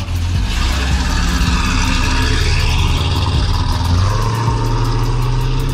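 A car engine running loudly, its note shifting about four seconds in, with a broad hiss over it.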